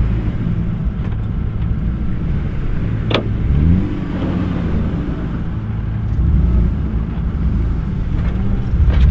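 Car engine running, rising and falling in pitch several times as it is revved, with a single sharp click about three seconds in.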